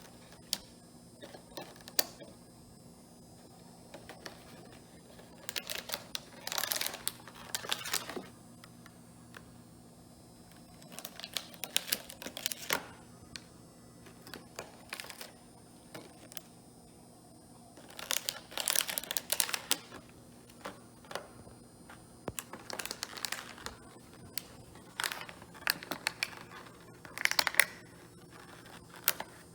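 Bichon puppy chewing a plastic drink bottle: irregular spells of loud crackling and clicking plastic, with short quieter gaps between bites.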